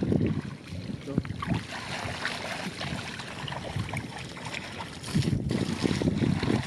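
Wind buffeting the microphone over irregular sloshing and splashing of shallow muddy water, with scattered small clicks. The sound is quieter through the middle and picks up again about five seconds in.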